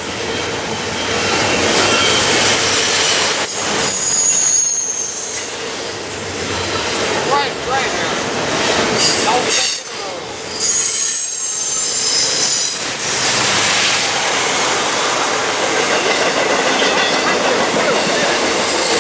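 Double-stack container freight train rolling past: the steady rumble and rattle of the loaded well cars on the rails, with short high-pitched wheel squeals coming and going.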